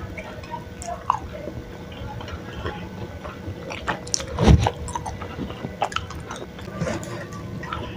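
A person chewing a mouthful of cirambay, chewy tapioca strips in chili oil, with many small wet mouth clicks. One louder thump about halfway through.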